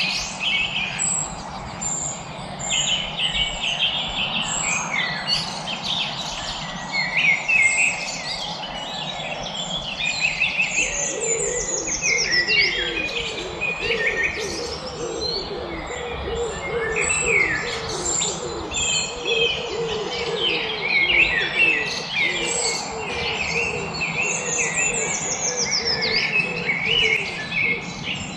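Several songbirds chirping and singing at once, with overlapping high calls, quick trills and downward sweeps. From about eleven seconds in, a lower, rapidly repeated call joins for over ten seconds.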